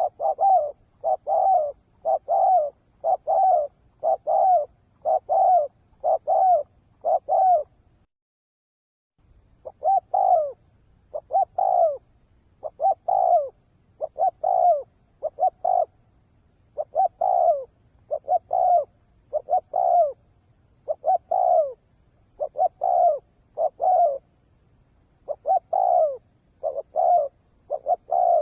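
Spotted dove cooing: a long series of short, arched coo notes repeated about every second and a half, with a brief dead break about eight seconds in.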